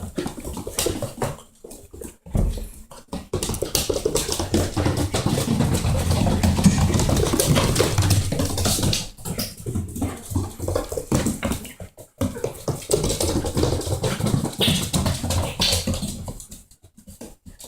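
Young Goldendoodle puppies moving and scuffling about, a busy mix of rustling with many small clicks and knocks that keeps starting and stopping.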